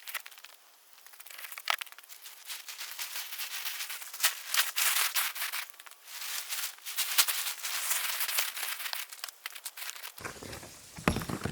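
Crinkling and rustling of camping gear being handled and packed, with many small irregular crackles, louder from about a second in. Near the end the sound changes suddenly and a few heavier thumps come in.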